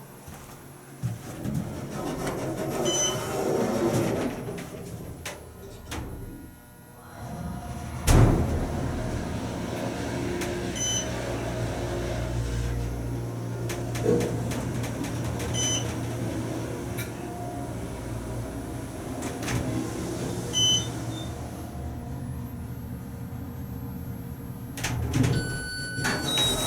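Otis hydraulic elevator in operation: a loud clunk about eight seconds in, then a steady low hum for around fourteen seconds, with short high beeps recurring every few seconds.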